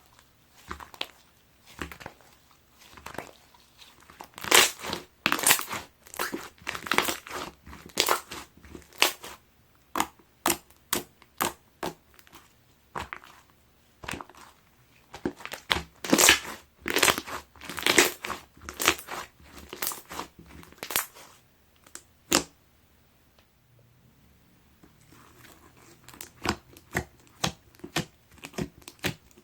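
Clear, gold-pearl brown slime being squeezed and stretched by hand, giving rapid runs of sticky clicking pops and crackles, with a short lull about three quarters through.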